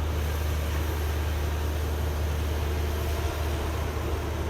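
Excavator's diesel engine running steadily, a deep, even drone with a wide hiss over it.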